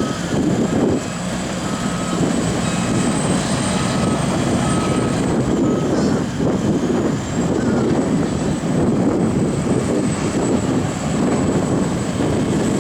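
Hydrema 912 articulated water truck's diesel engine running steadily under load.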